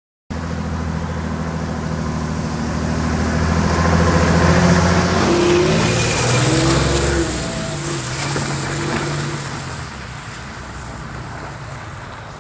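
Volvo 244's swapped-in Mercedes OM603 six-cylinder diesel engine running and pulling, starting abruptly. It grows louder to a peak about four to five seconds in, shifts in pitch, then fades steadily.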